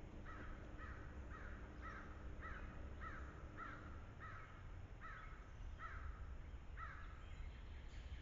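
A bird calling over and over: about a dozen short calls, roughly two a second, that stop about seven seconds in.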